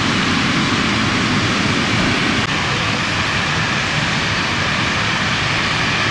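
Natural gas escaping under pressure from a punctured main pipe: a loud, steady rushing hiss.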